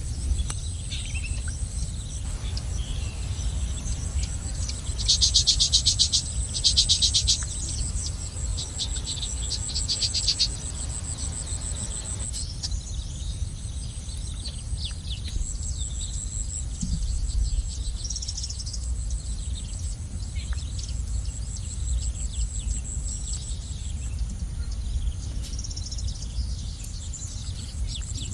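Outdoor ambience of insects and small birds: a steady high insect drone, with scattered short bird chirps. Twice, about five and seven seconds in, a loud rapid buzzy trill sounds, and a fainter one comes near ten seconds, over a low rumble.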